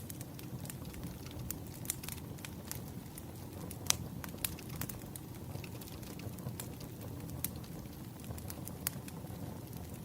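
Wood fire burning: a steady low rumble with irregular crackles and pops, one sharper pop a little before four seconds in.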